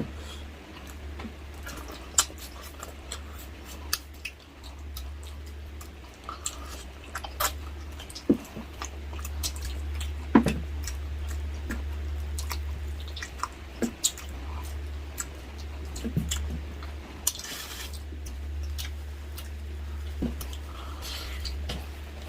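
Close-up eating sounds: chewing and mouth smacks on braised pork hock (humba), with scattered sharp clicks over a steady low hum.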